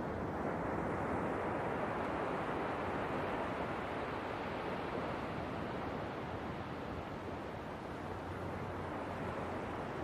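Ocean waves washing on the shore, a continuous rushing wash that swells a little in the first half and eases off toward the end.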